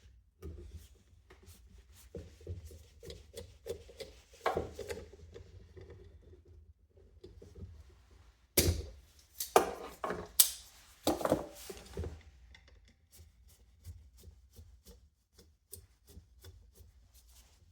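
Small parts of a box fan motor being handled by hand: scattered light clicks and rubbing, with a few louder clacks a little past halfway.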